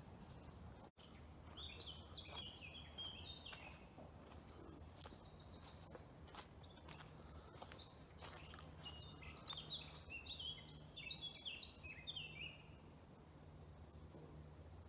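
Small songbird singing: quick, faint phrases of high chirps and trills, busiest in two spells early on and again toward the end, over a low steady hum.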